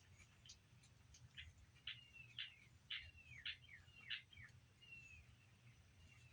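Faint high-pitched chirping from small animals: a quick run of short peeps, several of them falling in pitch, bunched together in the middle.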